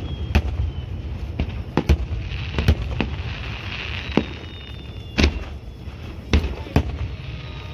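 Aerial firework shells bursting in a display: about eight sharp bangs at uneven intervals, some in quick pairs, with faint high whistles sliding slowly down between them.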